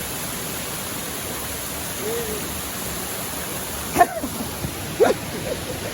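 Steady rush of river water flowing down a waterfall, with two short, sharp pitched cries about four and five seconds in.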